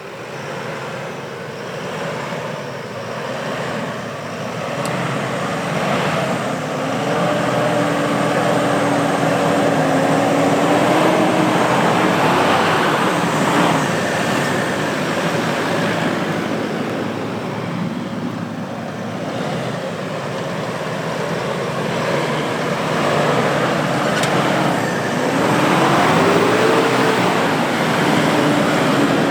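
Diesel 4x4 SUV engine revving as it drives through a soft off-road trail, its pitch climbing and dropping with the throttle, over a steady rushing noise.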